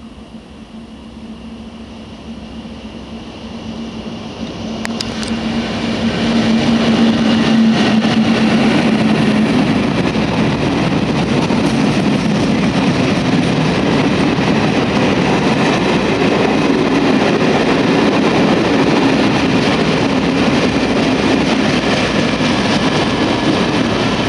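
Works train hauled by diesel locomotive 312.302 approaching and passing close by. A steady engine note builds as it nears and becomes loud by about six seconds. Then comes a long, steady run of wagon wheels rumbling and clicking over the rails as the hopper wagons go by.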